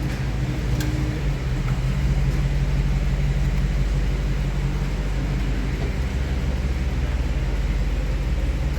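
Nissan Pathfinder V6 engine running at a steady idle.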